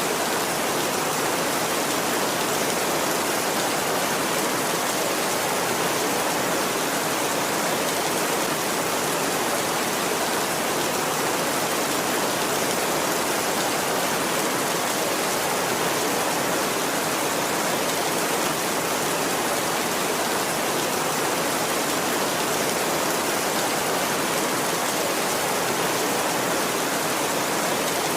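Heavy rain falling on a tin roof, a steady, even hiss with no thunder.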